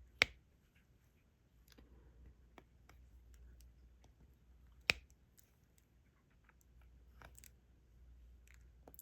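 Small plastic clicks and taps of diamond painting drills being picked up and pressed onto the canvas with a stylus: two sharp clicks, about a quarter second in and near five seconds, with faint scattered ticks between.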